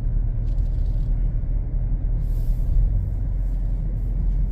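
2025 Ford Explorer Active's turbocharged 2.3 EcoBoost four-cylinder, breathing through Jones Full Boar mufflers with the resonator deleted, giving a steady low exhaust rumble at a light, even cruise with no revving, along with road noise.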